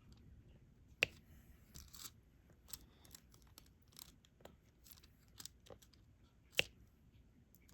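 Diamond painting stylus setting small resin drills onto the adhesive canvas: a scatter of faint small clicks and ticks, with two louder clicks about a second in and about a second before the end.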